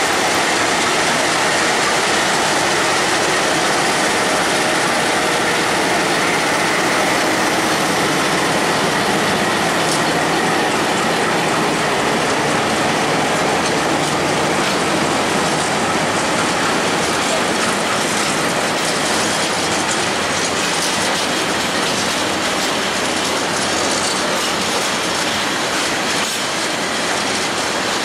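Freight train of tank wagons rolling past, a steady loud rumble of wheels on rail with clacking over the rail joints that grows more distinct in the second half as the wagons go by. The hauling diesel locomotives are passing at the start.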